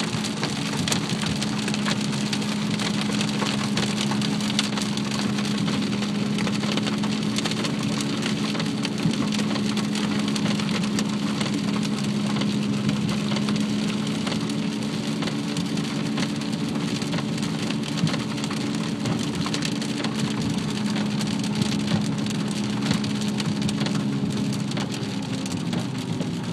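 Hail and rain drumming on a car's roof and windshield, heard from inside the car: a dense, steady patter of countless small hits. A steady low hum runs underneath.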